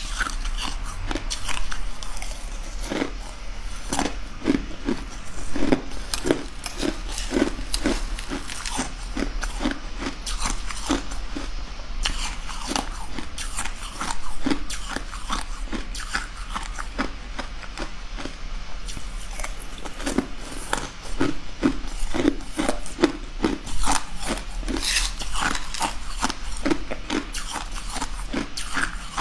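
A person crunching and chewing mouthfuls of hard, crunchy translucent pieces, close to the microphone: a dense, uneven run of crisp crunches, with a steady low hum underneath.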